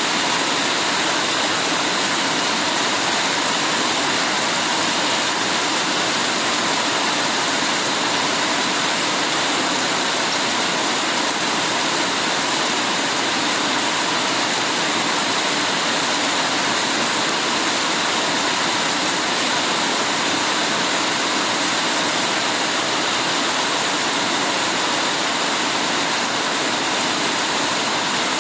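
Heavy rain falling steadily, an even hiss with no single drops or breaks standing out.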